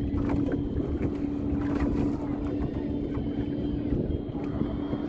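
A steady engine drone holding one even pitch, with wind rumbling on the microphone.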